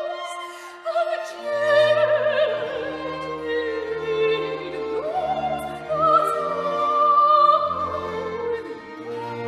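Operatic singing: a high classical voice with wide vibrato over orchestral strings, the lower accompaniment coming in about a second and a half in.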